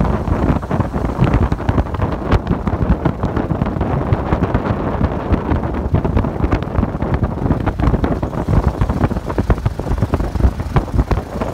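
A 1907 Itala running at road speed, its engine beating with a dense stream of rapid irregular knocks. Wind buffets the microphone heavily the whole time.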